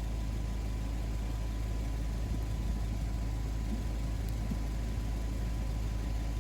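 A vehicle engine idling: a steady low rumble that holds level without building or fading.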